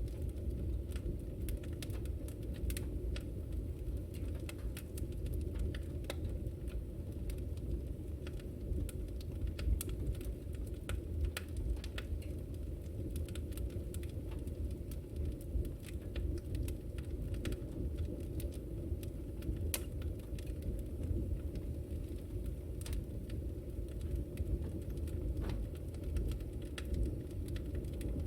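Wood fire burning in a fireplace: a steady low rush of flame with frequent sharp, irregular crackles and pops.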